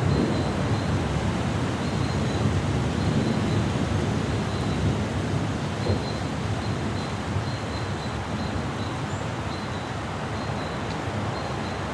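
Thunderstorm ambience: wind blowing steadily with a low rumble, easing slightly toward the end. Faint short high chirps, typical of a bird, repeat on and off throughout.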